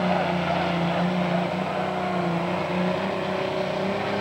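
Heavy super stock diesel pulling tractor's engine running at high revs during a pull, its pitch holding nearly steady.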